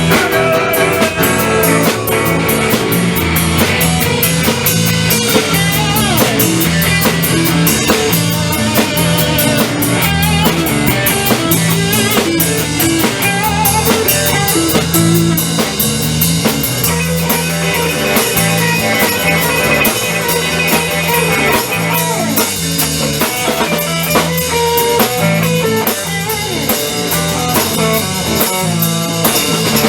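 Instrumental rock music: electric guitar over a steady drum-kit beat, with no singing.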